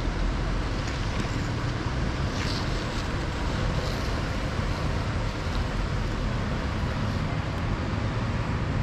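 Steady outdoor rumble of city traffic noise with wind on the microphone, even and unbroken throughout.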